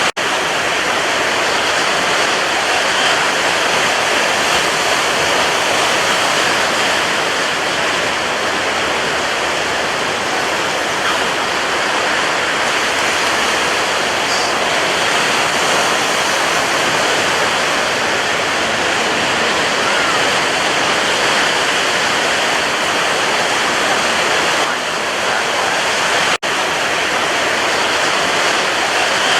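Sea waves: a steady, dense wash of surf with no separate breakers standing out. It cuts out for an instant twice, once right at the start and once about 26 seconds in.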